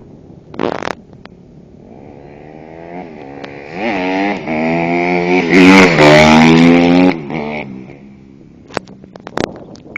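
Honda CRF150R four-stroke single-cylinder motocross bike coming closer under hard throttle. Its engine note rises and falls in pitch several times, is loudest about six seconds in, then fades away. A few sharp knocks come near the end.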